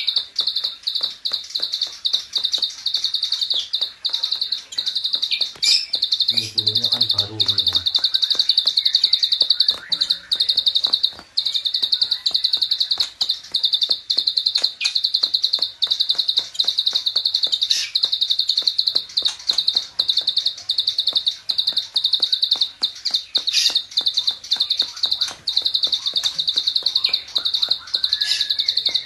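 A small bird's 'klik klik' call in long rapid-fire bursts: a dense, fast run of sharp high clicks that goes on almost without a break, with only brief gaps. A few other bird notes sound behind it, and a brief lower sound comes about six to eight seconds in.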